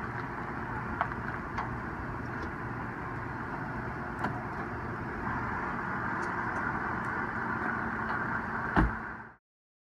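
Stretch limousine idling: a steady low running hum with light background noise. A single loud thump comes near the end, and then the sound cuts off abruptly.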